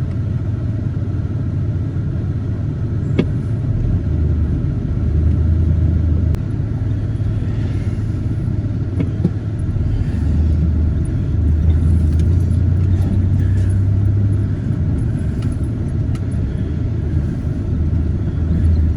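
Truck engine running at low speed, a steady low rumble that swells now and then, with a few faint clicks.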